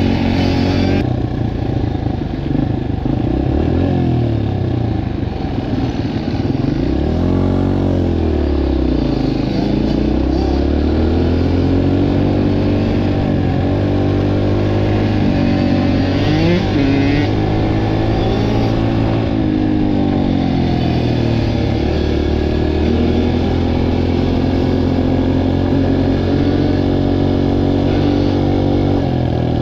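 Several dirt bike engines running at once, overlapping, their pitches repeatedly rising and falling as they rev up and ease off.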